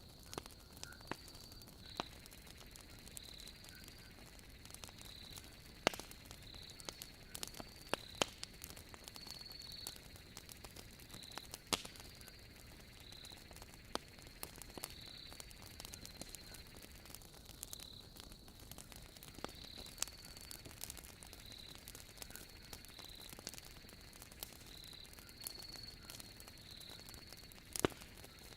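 Wood logs burning in a fireplace, crackling with irregular sharp pops, a few of them louder. Behind the fire, crickets chirp steadily in short, high, repeated notes.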